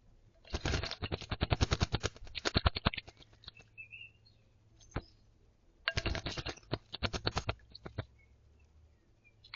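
A small garden bird bathing in a shallow terracotta water bowl: two bouts of rapid splashing, water flicked about ten times a second, the first lasting about two and a half seconds and the second about a second and a half, near the end. A faint short chirp falls between them.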